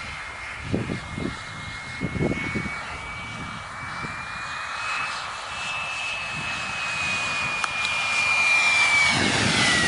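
Radio-controlled model airplane in flight, its motor and propeller making a steady high whine that rises slightly, then drops in pitch near the end as it passes close by and gets louder. A few low thumps about one and two seconds in.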